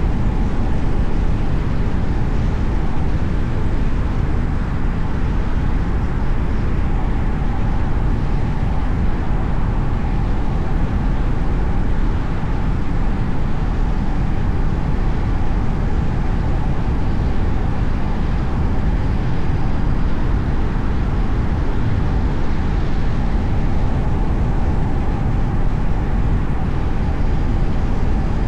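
A car driving at a steady speed: continuous low rumble of road and engine noise with tyre hiss, and a faint steady tone running through it.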